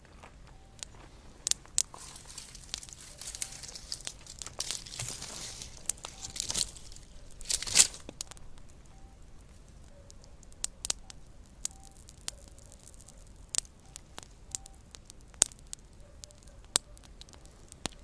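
Small campfire crackling, with irregular sharp pops and snaps. A stretch of hissing rush runs from about 3 to 7 seconds in, and the loudest pop comes about 8 seconds in.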